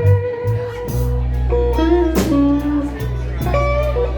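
Live blues band playing an instrumental fill between sung lines: a long held lead note, then shorter melodic phrases, over steady bass and drum hits.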